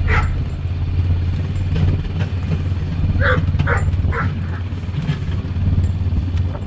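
ATV engine running steadily as it pushes snow with a small front plow. A few short, sharp higher sounds come in quick succession about halfway through.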